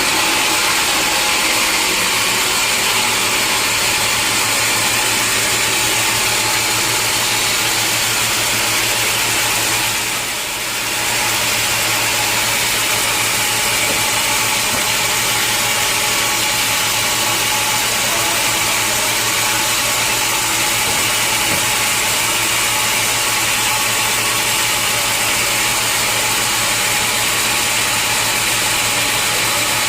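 Sawmill machinery running steadily: a constant engine-like hum under a dense, even hiss, dipping briefly in level about ten seconds in.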